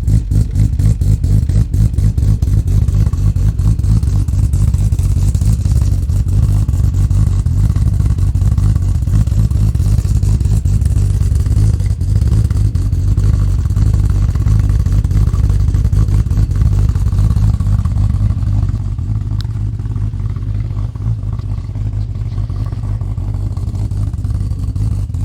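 Built, turbocharged Ford Barra inline-six idling lumpily on a cold start on E85, with a rough, uneven pulse because it is untuned and its new cams are not dialed in; it sounds angry. About eighteen seconds in, the idle settles a little quieter.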